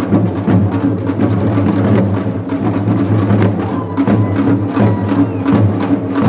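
Korean nongak (pungmul) percussion band playing: drums and gongs struck in a fast, dense rhythm over a steady low ringing tone.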